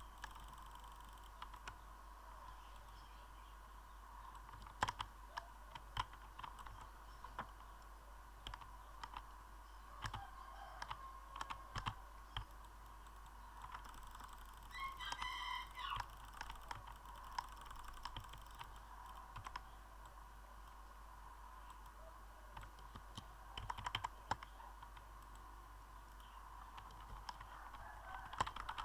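Faint, irregular clicks, one every second or two and sometimes in short clusters, over a steady low background hum.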